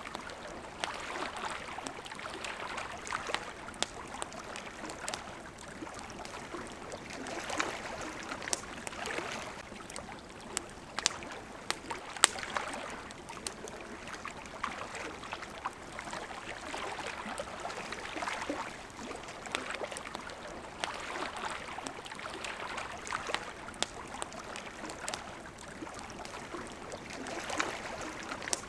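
Water lapping against a shore in soft swells every few seconds, over a steady wash of flowing water, with a wood campfire crackling in frequent short sharp pops.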